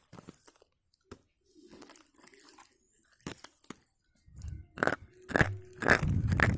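Slate pencil being bitten and chewed close to the microphone: sparse crisp crunches at first, then loud, rapid crunching from about two thirds of the way through.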